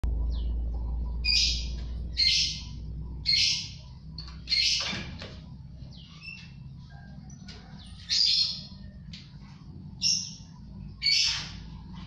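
Caged birds calling: seven loud, short, harsh, shrill calls at irregular intervals, with softer chirps in between.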